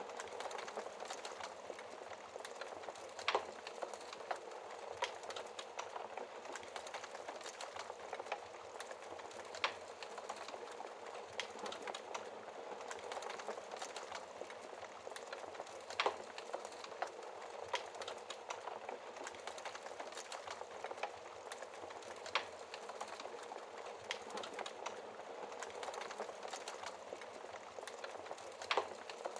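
Wood fire burning steadily, with a continuous soft hiss and frequent sharp crackles and pops from the burning logs, a few louder pops standing out.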